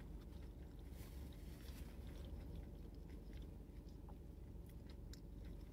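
Faint chewing of a ham breakfast sandwich, with soft, scattered mouth clicks, over a steady low hum.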